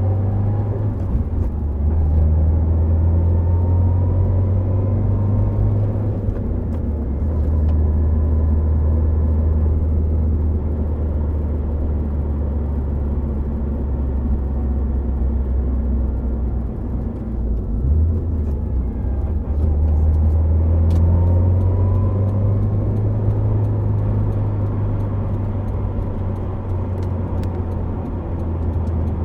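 Subaru Impreza WRX STI Spec C with an A-RM aftermarket exhaust cruising on an expressway: a steady deep exhaust drone with tyre and road noise. The engine note rises in pitch a few times under acceleration and eases off briefly about two-thirds of the way through.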